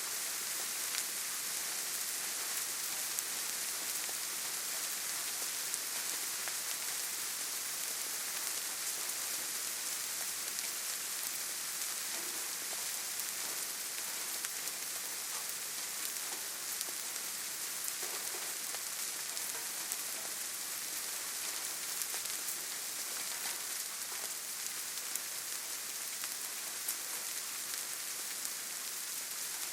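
Steady gentle rain falling on leaves and forest ground: an even hiss with many small, close drop ticks.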